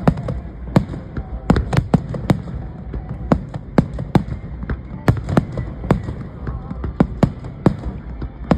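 Fireworks display bursting: an irregular run of sharp bangs, about two a second, over a continuous low rumble.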